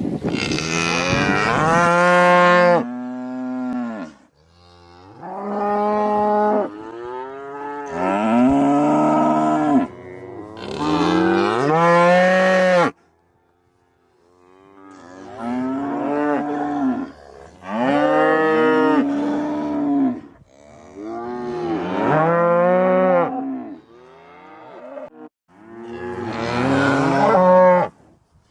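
A cow mooing repeatedly: about nine long, drawn-out moos, each a second or two long, with short pauses between them.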